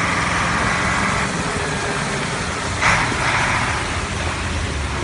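KAMAZ truck's diesel engine running as the truck moves off, with a short hiss about three seconds in.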